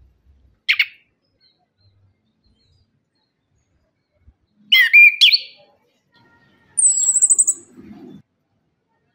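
Chestnut-capped thrush (anis kembang) singing in separate phrases: a short call, then a whistled phrase that glides up and down, then a quick, very high trill.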